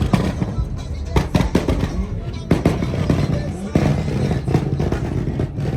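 Car meet din: engines running under many irregular sharp pops and cracks, mixed with voices and music.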